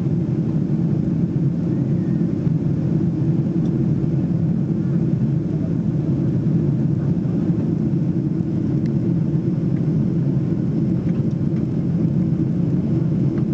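Steady cabin noise inside a Boeing 777-300ER in flight: the drone of its GE90 engines and the rush of air over the fuselage, a low, even rumble that does not change.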